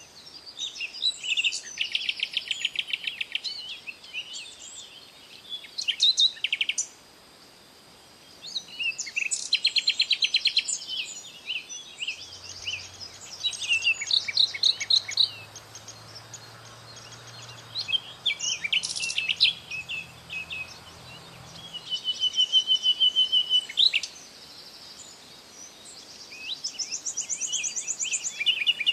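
Songbirds singing in a series of phrases of rapid, high trills and chirps, each a second or two long with short pauses between them.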